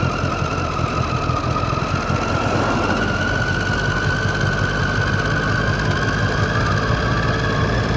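Triumph Street Triple 675's inline three-cylinder engine running at steady revs, its pitch creeping up gradually.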